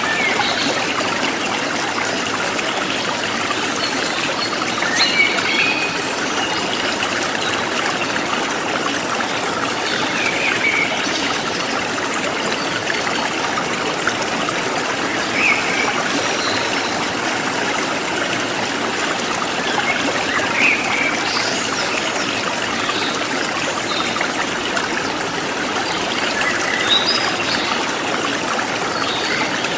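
Forest stream flowing steadily, with short bird chirps every few seconds.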